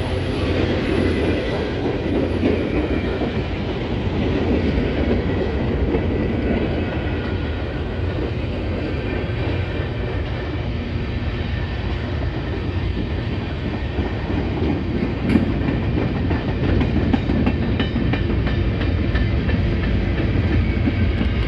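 Freight cars of a manifest train rolling past close by: a steady rumble of wheels on rail, with the clicking of wheels over rail joints running through it.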